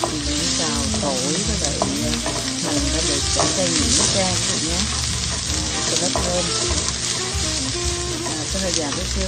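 Minced aromatics sizzling in hot oil in a wok, stirred and pushed around with a wooden spatula.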